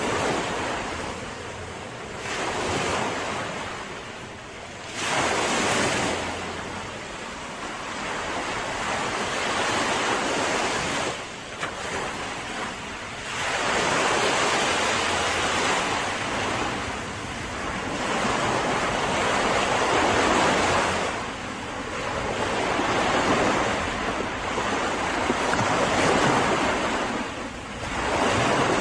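Mediterranean sea waves washing onto a beach, the surf surging and ebbing every few seconds, with some wind on the microphone.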